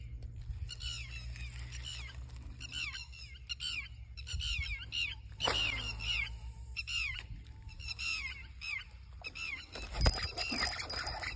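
A bird calling again and again in short series of sharp, falling notes, the sound that has been irritating the angler since he arrived. A single loud thump comes about ten seconds in.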